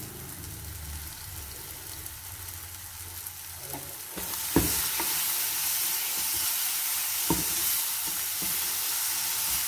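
Onion-tomato masala sizzling in a nonstick frying pan while a plastic slotted spatula stirs it, knocking against the pan a few times. The sizzle grows louder about four seconds in, as the stirring turns the mixture over.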